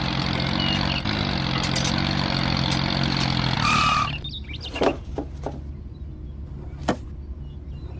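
A motor runs steadily, then cuts off suddenly about four seconds in. A few sharp knocks follow.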